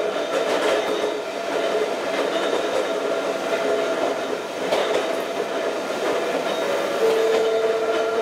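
Ohmi Railway electric railcar MoHa 224 running, heard from inside the car: a steady rumble of the moving train with a hum of steady tones. About seven seconds in, a clear steady tone comes in above the rumble.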